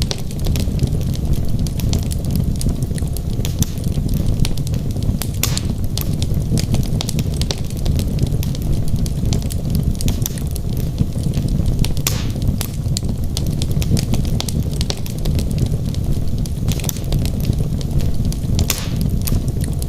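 Wood logs burning in a fireplace: a steady low rumble of flame with constant sharp crackles and pops, a few louder pops standing out now and then.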